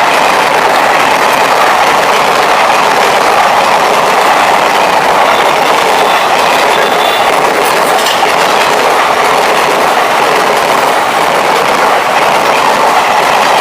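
Passenger train running past at speed: a loud, steady rattle and rumble of coach wheels on the rails.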